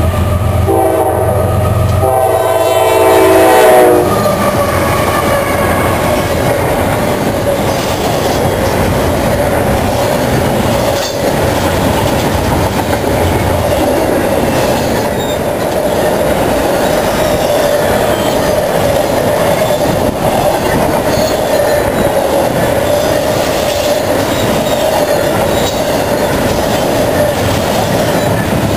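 Diesel freight locomotive's air horn blowing a chord as the train closes in, breaking briefly just after the start and cutting off about four seconds in. Then a double-stack container train rolls past at speed: steady wheel-and-car noise with a steady ringing tone underneath.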